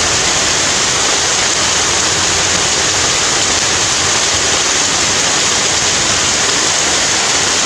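Heavy rain pouring down without a break: a loud, steady hiss.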